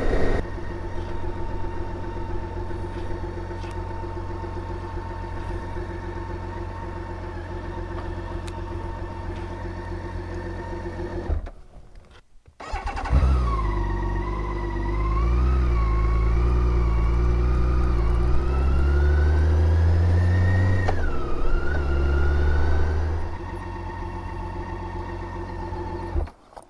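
Motorcycle engine running under way at a steady pitch; it drops out briefly about eleven seconds in, then comes back with its pitch wandering and rising through several seconds of acceleration before steadying again near the end.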